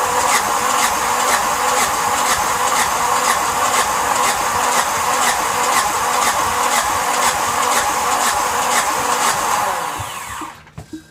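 Yanmar SB12 single-cylinder marine diesel turned over by its electric starter, cranking steadily with a regular pulse about twice a second, without catching. The starter stops near the end and winds down. The fuel line has just been replaced and bled, and air in the fuel line is the suspected reason it won't run.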